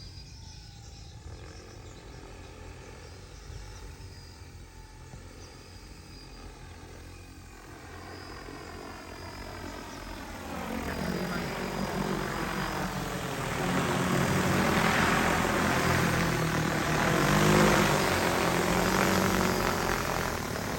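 DJI T20P agricultural spraying drone's rotors whining in flight, faint at first and growing steadily louder from about eight seconds in as it comes closer, the pitch shifting as it passes.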